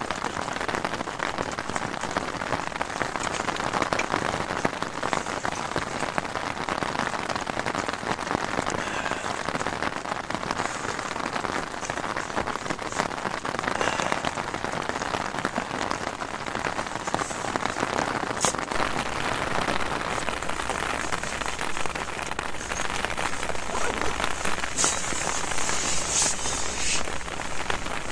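Heavy rain falling on a tent's fabric fly, heard from inside the tent as a dense, steady patter, with a few brief louder hisses near the end.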